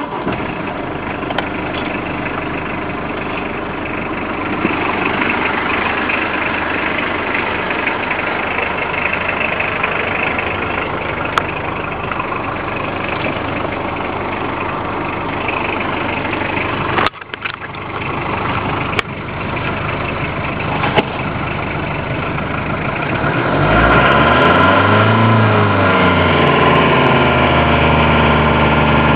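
Citroen BX running with a hissy, raspy noise, not like air escaping, which the owner hears coming from the footwell. Near the end the engine is revved up and back down and the sound gets louder.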